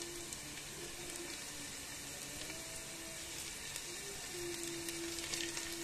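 Onions and garlic sizzling softly in butter in a nonstick pan, a steady low hiss of frying.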